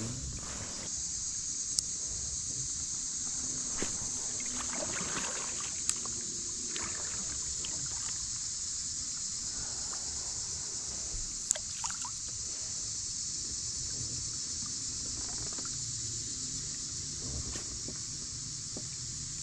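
Quiet water sounds around a kayak on a pond: soft trickling and lapping with a few small clicks and knocks. A steady high-pitched hiss runs underneath.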